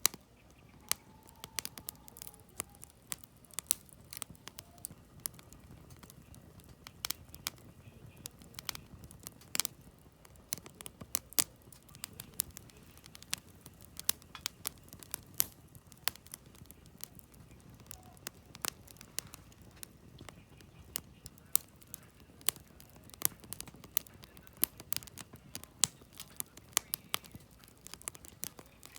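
Firewood burning in a campfire, crackling with many irregular sharp pops and snaps over a low steady rumble of the flames.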